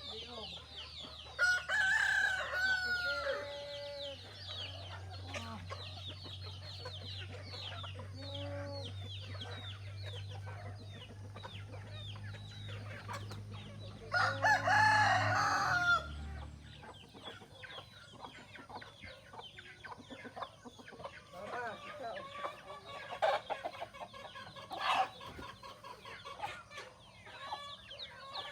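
Roosters crowing, two long loud crows, one about a second and a half in and one near the middle, over constant peeping of chicks and clucking of hens waiting for their feed.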